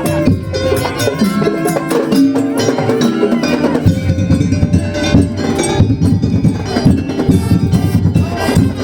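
Madurese daul ensemble playing: dense drumming and struck metal percussion under a held, pitched melody line. The drumming grows busier about four seconds in.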